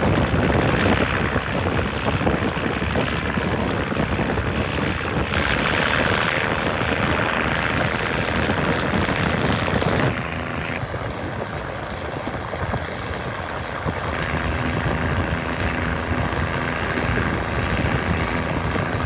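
Hitachi RHN diesel railcar running along the line: a steady drone of engine and rattling wheels on rail. About halfway the sound thins and a steady engine hum comes through.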